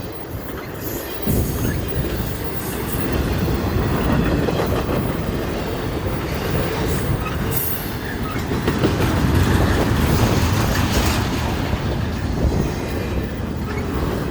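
Freight train cars rolling past close by: a steady, loud rumble of steel wheels on the rails with clacking over the rail joints.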